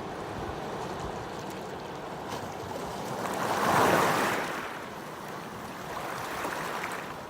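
Ocean waves breaking on the shore in a continuous wash of surf, with one wave swelling and crashing loudest about four seconds in, then easing off.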